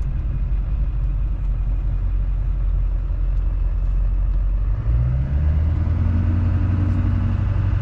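Chevrolet Silverado's Duramax diesel engine running with a steady low rumble. About five seconds in, the engine note changes and rises in pitch as the truck picks up revs.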